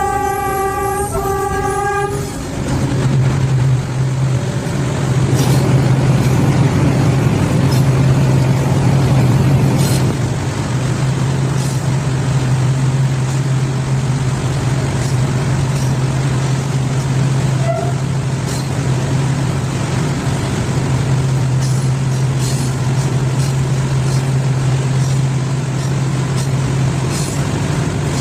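A train's locomotive horn sounds for about two seconds, then the train runs on through a rail tunnel with a steady low drone and rumble, with a few faint clicks.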